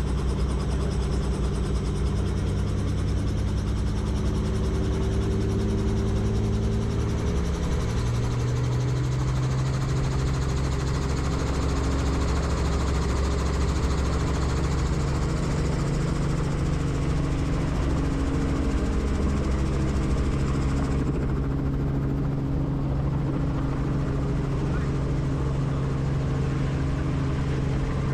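Helicopter engine and rotor running steadily and loudly, a low droning hum with a constant roar; its pitch steps up slightly about eight seconds in.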